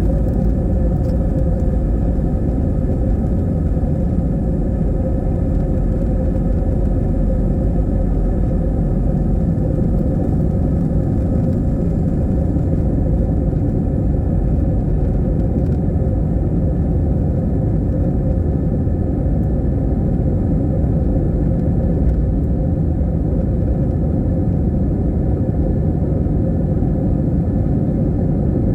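Steady low rumble of an airliner cabin in flight, engine and airflow noise, unchanging throughout with a faint steady hum in it.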